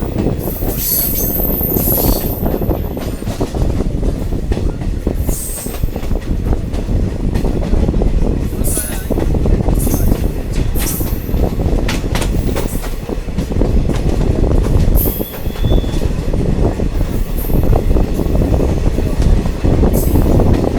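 Diesel multiple unit train running along the track: a steady loud rumble, with brief high-pitched wheel squeals every few seconds.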